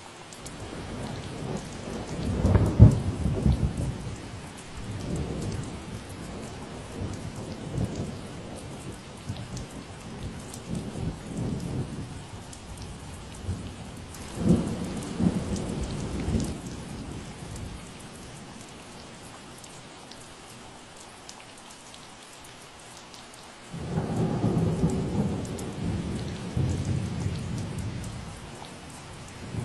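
Steady rain falling, with low rolling rumbles of thunder that swell up about two seconds in, again near the middle, and once more toward the end.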